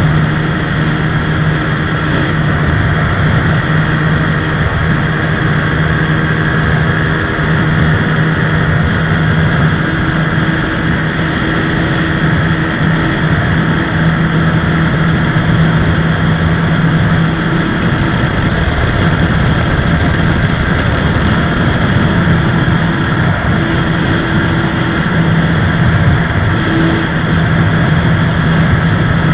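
TVS Apache 160 4V motorcycle's single-cylinder engine running steadily at speed, with a constant rush of noise over it.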